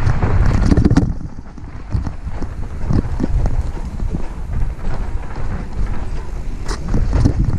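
Mountain bike riding fast down a sandy, rough trail: wind buffets the microphone with a heavy rumble, while the tyres hiss over the ground and the bike's chain and frame rattle and knock over bumps. It eases off briefly about a second in, then the clatter picks up again.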